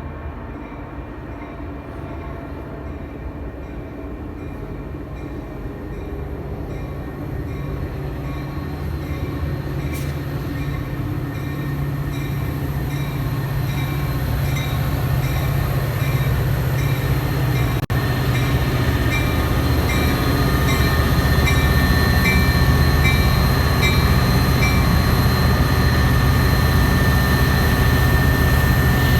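Metra diesel commuter train approaching, its engine growing steadily louder, with a bell ringing about twice a second until near the end.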